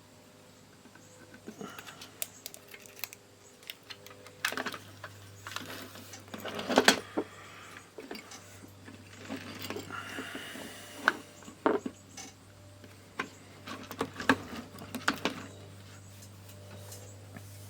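Irregular small clicks, taps and rattles of hands working on an opened plastic digital multimeter and its internal parts, with a louder clatter about seven seconds in. A faint steady low hum runs underneath.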